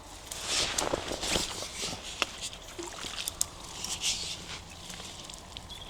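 Irregular splashing and sloshing of river water at the bank as a fish is held in the water and released by hand, with a few small handling knocks.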